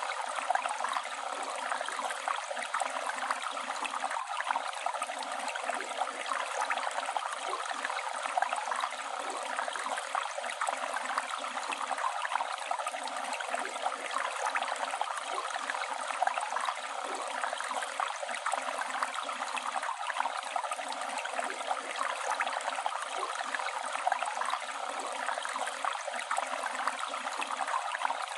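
River water flowing and babbling: a steady rushing with fine splashing detail, even throughout.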